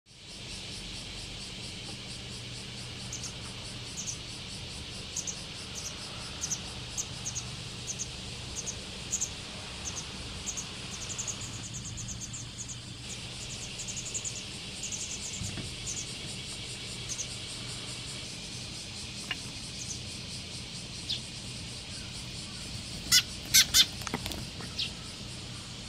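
Small birds chirping: a long run of thin, high, short chirps, then a few loud sharp calls from a white wagtail about 23 seconds in, over a steady high hiss.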